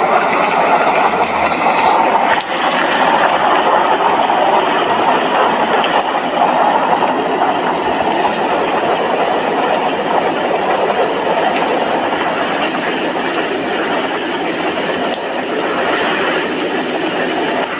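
Steady rain falling: an even, continuous hiss with faint scattered ticks of drops.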